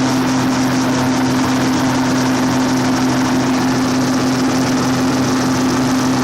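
Steady engine drone of a river motor ship under way, a constant low hum over an even rushing noise.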